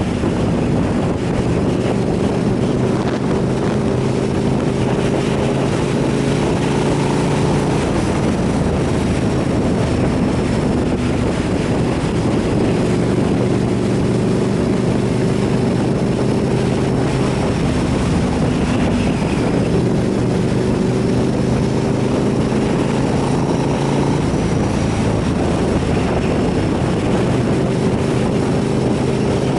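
Motorcycle engine running steadily at road speed, its pitch drifting slightly up and down a few times, with wind noise on the microphone.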